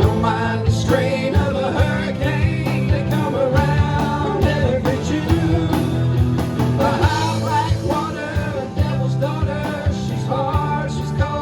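Live band playing an instrumental break: a bending lead melody over bass and drums with a steady beat.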